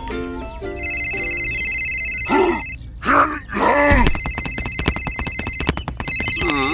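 A telephone ringing, an electronic ring repeating in two stretches. A few short groaning voice sounds break in between, a little after two seconds in.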